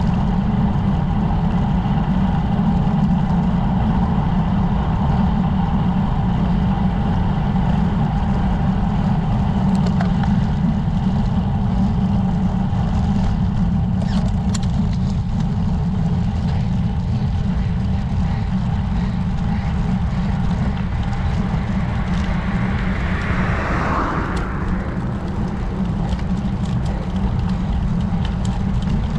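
Steady wind rush buffeting the camera microphone while riding a road bike, with a short swelling whoosh about three-quarters of the way through.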